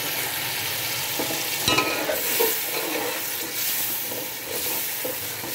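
Potatoes, peas and tomato masala sizzling in an aluminium pot while a metal spoon stirs them, scraping against the pot. There are a couple of sharp knocks of the spoon about two seconds in.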